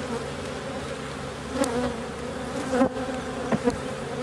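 Carniolan honey bees buzzing around an opened hive, a steady hum, from a defensive colony disturbed by the inspection. A few faint clicks sound near the middle.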